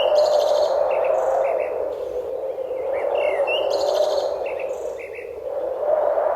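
Small songbirds chirping and trilling in short, high phrases; the same group of chirps recurs about every three seconds, over a steady, low rushing hiss that slowly swells and fades.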